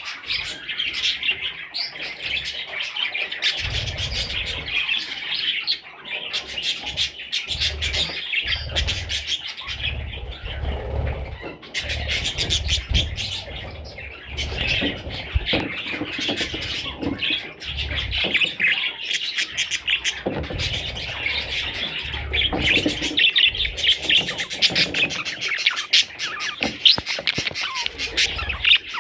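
Budgerigars chattering and chirping continuously, with scattered sharp clicks and low bumps.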